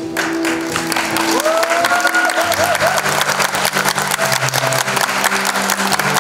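Audience applauding steadily, with many hands clapping over background music.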